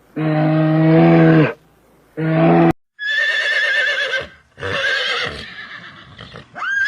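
A cow lowing twice in a deep, even call, the second cut off abruptly. Then a horse whinnying twice, high and trembling.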